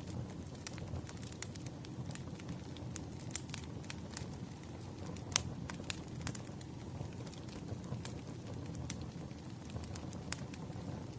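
Campfire crackling: a steady low rumble of burning with sharp pops scattered throughout, one louder pop about five seconds in.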